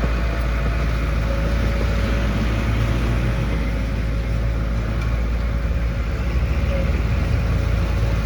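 Diesel engine of heavy construction machinery running steadily with a deep rumble and a steady whine above it.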